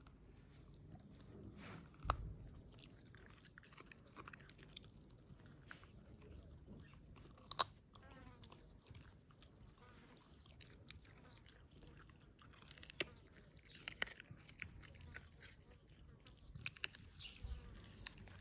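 West Highland White Terrier biting and chewing a raw carrot: irregular crisp crunches, a few of them louder.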